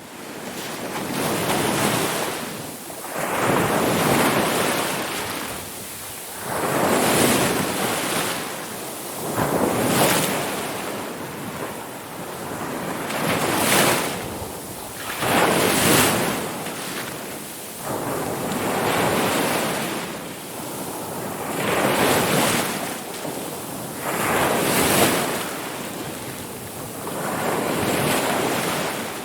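Ocean waves rolling in and breaking on the shore, one surge after another, each swelling and falling back every two to three seconds.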